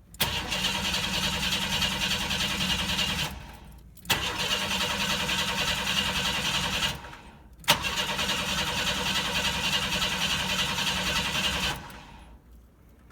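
A 1992 Chevy S10 Blazer's TBI V6 being cranked by the starter three times for about three to four seconds each, with a click as the starter engages, and never catching. It does not start because there is no fuel pressure, the sign of a dead fuel pump.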